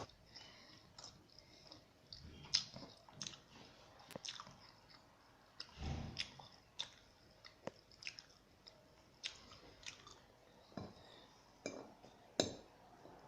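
Cat crunching dry kibble: irregular crisp crunches and clicks of chewing, with a duller thump about six seconds in.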